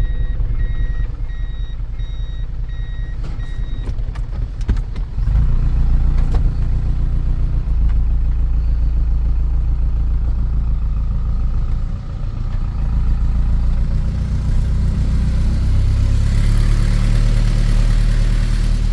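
Truck's reversing alarm beeping in a steady on-off pattern over its engine for the first few seconds. The truck's engine then pulls harder and louder from about five seconds in as it drives up the hill.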